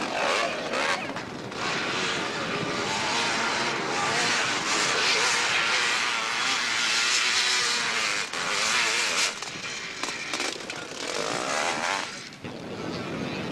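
Dirt bike engine running hard up a steep hillclimb, its pitch wavering as the throttle opens and closes; it is loudest in the middle and falls away near the end.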